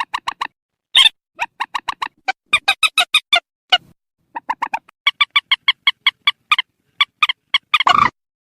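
Purple swamphen calling: rapid trains of short, loud nasal notes, about five or six a second, in bursts separated by brief pauses, with a harsher, rougher note near the end. It is a 'ré' call of the kind used as a lure.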